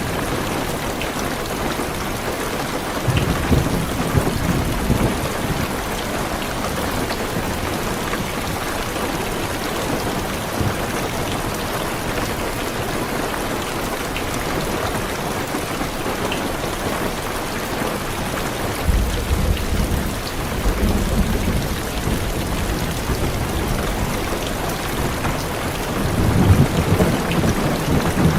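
Heavy rain falling steadily on a car's windows and roof, with low rolls of thunder rumbling in three times: a few seconds in, about two-thirds of the way through, and again near the end.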